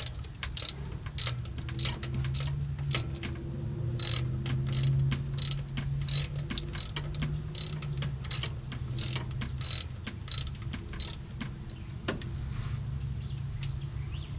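Hand ratchet wrench clicking in a steady rhythm, about two clicks a second, as a bolt is backed out of the engine; the clicking stops about eleven seconds in.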